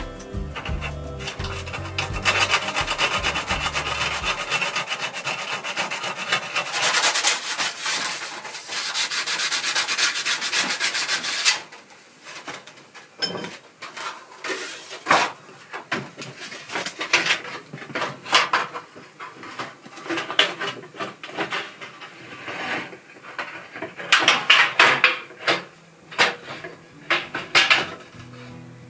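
Hand scraping and rubbing on a workpiece: a dense run of rapid back-and-forth strokes for about ten seconds, breaking off suddenly into slower, separate strokes.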